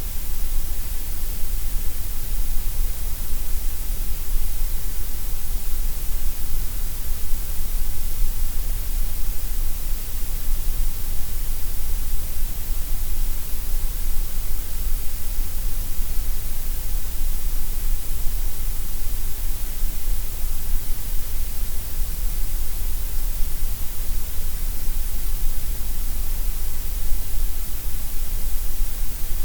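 Gray noise: a steady, unchanging synthetic hiss with a deep rumble under it, evenly spread across the whole range.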